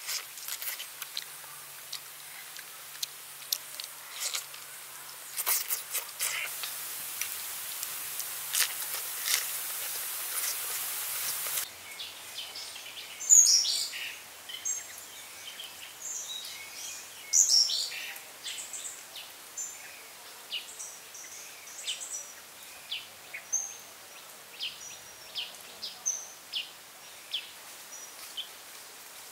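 Wild birds chirping in many short, repeated calls over forest ambience through the second half, with a few louder calls about 13 and 17 seconds in. Before that, for about the first twelve seconds, a steady high hiss with scattered clicks and smacks of someone eating, which stops abruptly.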